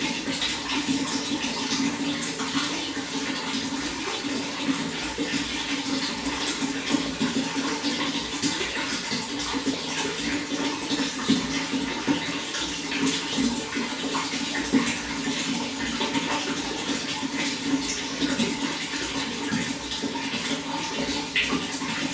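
Running water flowing steadily, a continuous rush with many small splashes.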